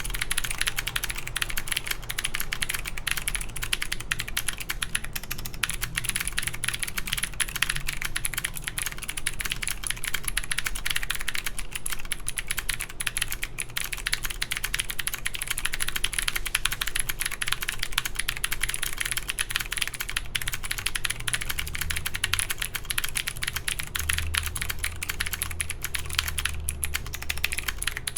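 Continuous fast typing on an OTD 356CL mechanical keyboard with clicky Cherry MX Blue switches on a full aluminum plate, under Cherry keycaps: a dense, unbroken stream of sharp key clicks.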